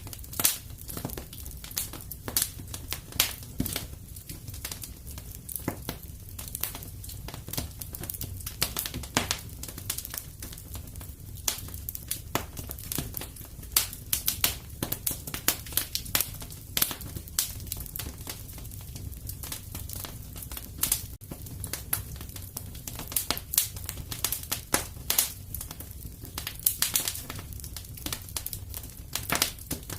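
Wood fire burning in a fireplace: a steady low rumble under frequent irregular crackles and sharp pops.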